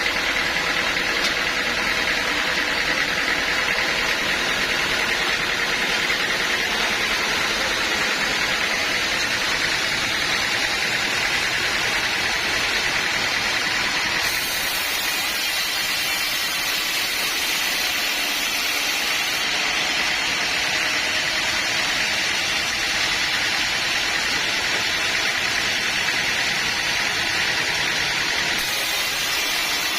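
Sawmill saw and its engine running steadily, a continuous even mechanical noise with a faint steady whine. The hiss in the top range shifts abruptly a few times.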